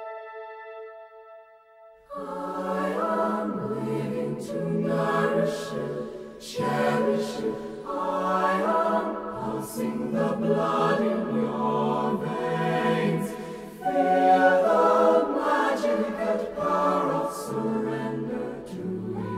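Choral music: a choir singing slow, sustained chords. It enters about two seconds in, after a held chord fades out.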